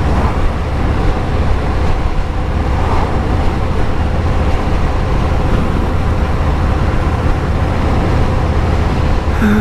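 Motorcycle riding at speed: a steady rush of wind and road noise over a low, even engine rumble.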